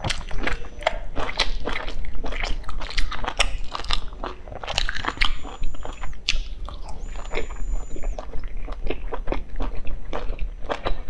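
Close-up wet chewing and biting of soft steamed buns (baozi), with many quick irregular mouth clicks and smacks.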